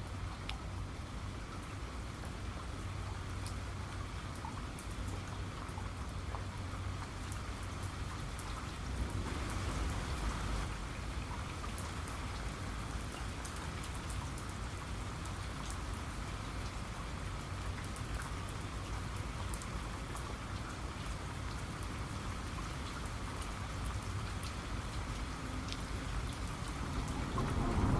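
Steady rain falling, with scattered sharp drop impacts on a surface. Near the end a deep thunder rumble begins to build.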